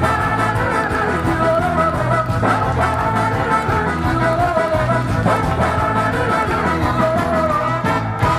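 Live band playing a song, with a steady bass-and-drum rhythm under sustained pitched instruments; the music drops out briefly near the end.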